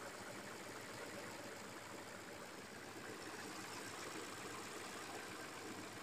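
Audi AUW-code engine idling faintly and steadily, recorded for a knock (стук) it has developed.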